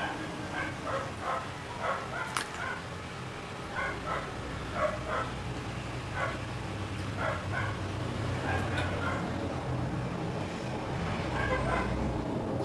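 Short, irregular, high yips and whimpers from a pet animal, repeated many times, over a low hum that grows louder about halfway through.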